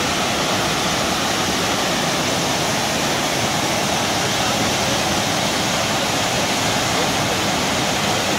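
Muradiye Waterfall's water falling and splashing: a steady, even rush of noise.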